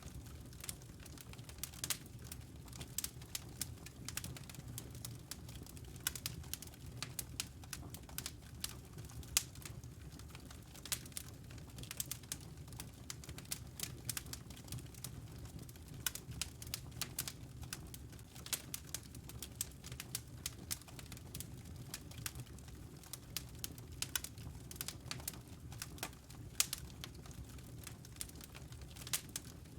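Wood fire crackling in a fireplace: many irregular sharp pops and snaps over a low steady hum.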